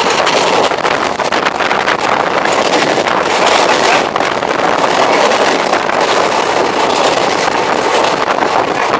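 Passenger train running at speed: a loud, steady rush of wheels on the rails, with quick clicks and rattles throughout.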